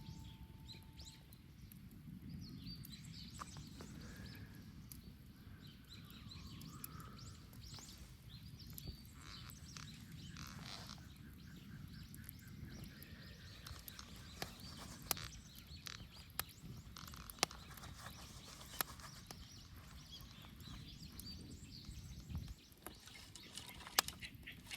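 Wood bonfire burning with a low steady rumble and scattered sharp crackles and pops, a few louder snaps in the second half.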